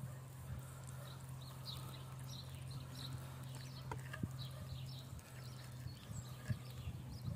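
Small birds chirping repeatedly over a steady low hum, with a couple of light clicks about four seconds in.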